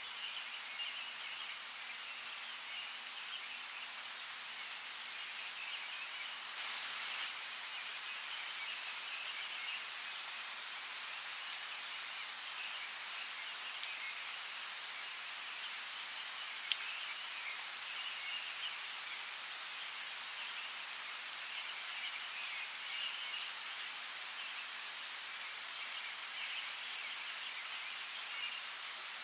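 Steady rain falling, with scattered close drips, over a constant high-pitched chirping in the background.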